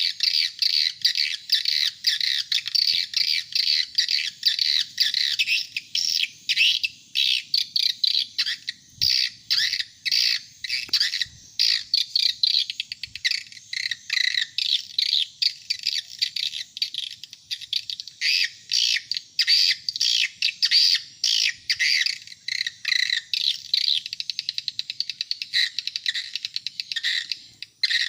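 Swiftlet lure call: edible-nest swiftlet chirps and twitters packed into quick high runs, repeating without a break. It is the call sound used to draw adult swiftlets into a swiftlet house.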